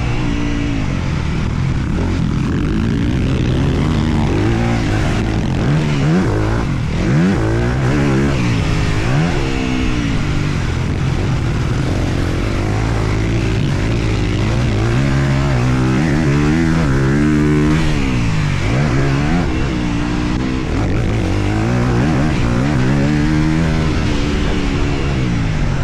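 Honda CRF250R single-cylinder four-stroke motocross engine under hard riding, its pitch rising and falling again and again as the throttle opens and closes and the gears change.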